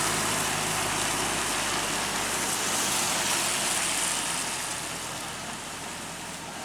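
A heavy vehicle's engine running low and fading away, under a steady broad hiss.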